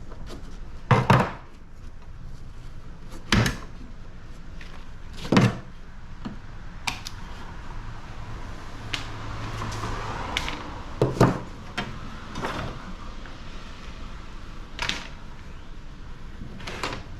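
Scattered metal clanks and knocks from hand tools working on a scrap air conditioner unit as it is dismantled, with about half a dozen sharp hits spread out and quieter handling in between.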